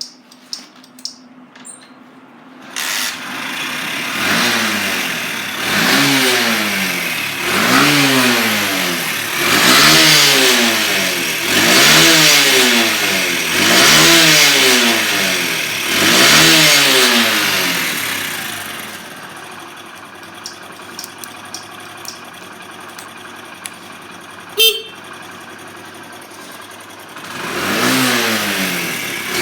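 Honda CD90's single-cylinder four-stroke engine starting after a few light clicks, then revved in repeated blips about every two seconds. It settles to a steady idle with a brief sharp sound, then is revved again near the end.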